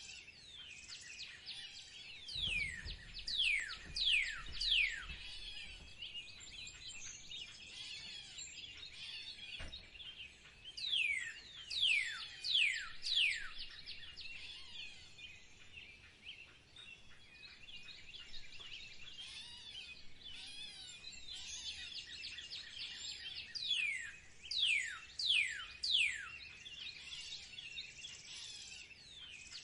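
Birds singing and chattering together. Over the chatter, one louder bird gives a run of four or five sharply falling whistled notes, about half a second apart, three times, roughly ten seconds between runs.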